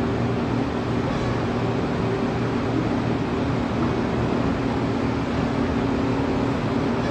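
Steady low mechanical drone with a constant hum and an even rumble underneath, unchanging throughout.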